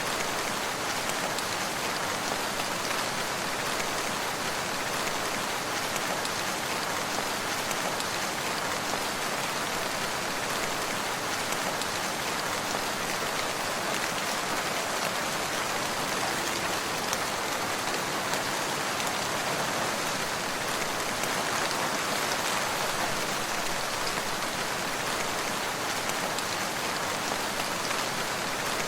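Steady rain falling and pattering on surfaces, an even, unchanging hiss with scattered fine drop ticks.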